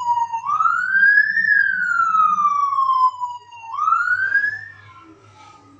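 Police car siren wailing in slow rising and falling sweeps, two rises in all, then dying away near the end.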